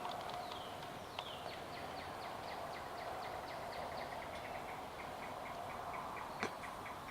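A bird singing a long series of short, down-slurred whistled notes, about four or five a second, over a steady background hum. A single sharp click about six and a half seconds in.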